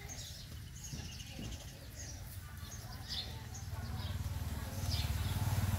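Small birds chirping now and then, short high falling calls, over a low rumble that grows louder near the end.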